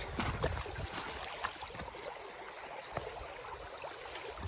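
Creek water running, a steady rush, with a few light ticks.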